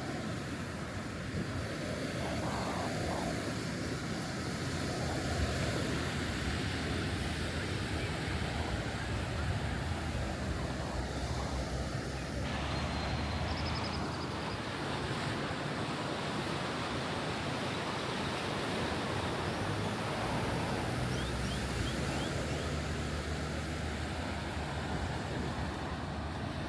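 Ocean surf washing steadily onto a beach, with some wind on the microphone.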